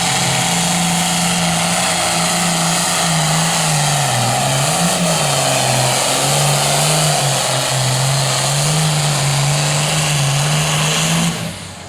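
International Harvester 1066 tractor's diesel engine running hard under full load as it pulls the sled, a loud steady drone. Its pitch sags about four seconds in as the engine lugs down, then climbs back, and the sound fades out near the end.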